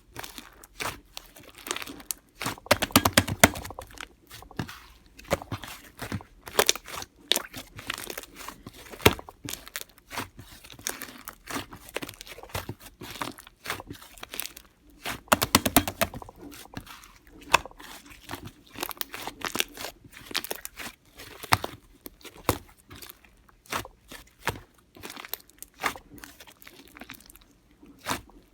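Green kkwari slime being pressed and squished by hand, giving a dense, irregular run of small pops and crackles. Louder, busier spells come about three seconds in and again around fifteen seconds in.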